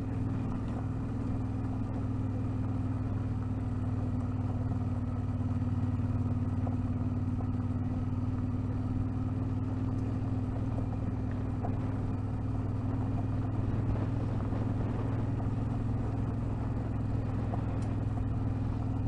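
Car engine running at a steady pitch while driving, with tyre and road noise from a rough loose-gravel track.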